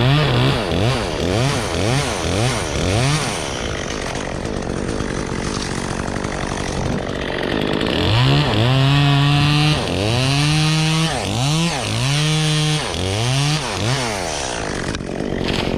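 Gas chainsaw being revved in quick blips, about two a second. It then runs for a few seconds with no clear rev, then is held at high revs with sharp dips between.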